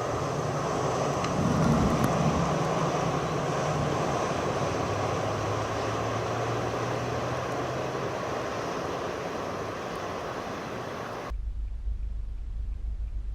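Strong nor'easter wind gusting, a broad steady rush. About eleven seconds in it cuts off abruptly, leaving only a low rumble.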